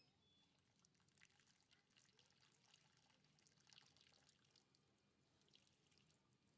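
Very faint water pouring and trickling, with scattered small crackles and ticks.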